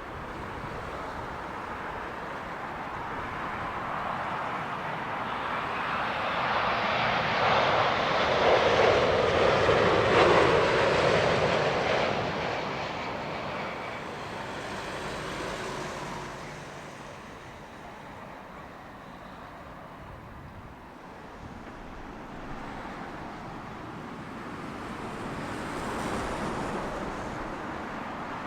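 Jet airliner landing, passing low overhead: its engine noise swells to a loud peak about ten seconds in and then fades away. A fainter swell follows near the end.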